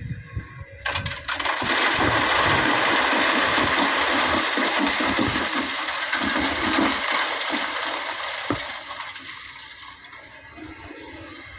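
Excavator bucket dumping a load of sand into a steel dump-truck bed: a loud rushing pour with stones clicking and rattling. It starts suddenly about a second in and tails off over the last few seconds.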